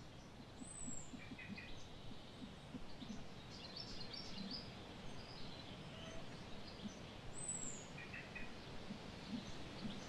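Birds calling here and there over a steady, faint outdoor background. The calls come as short chirp clusters, a run of higher calls in the middle, and a thin high falling call twice.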